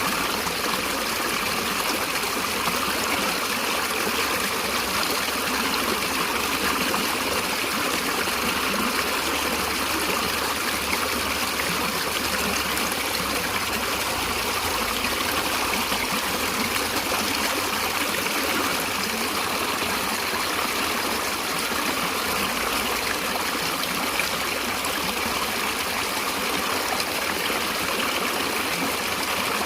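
A stream of running water, flowing and trickling steadily.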